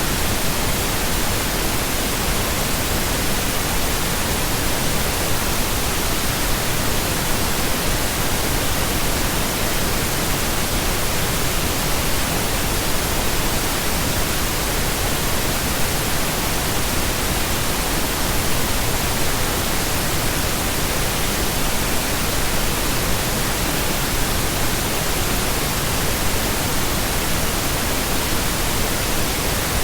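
Continuous pink noise: a steady, even hiss spread across all pitches, unchanging throughout.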